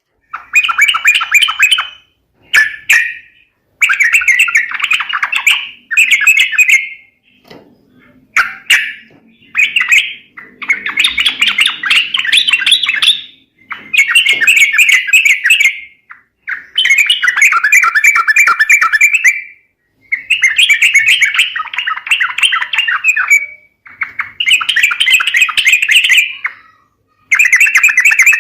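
Yellow-vented bulbul (trucukan) chattering song, a loud lure recording. It comes in repeated bubbly phrases of about one to three seconds, separated by short pauses.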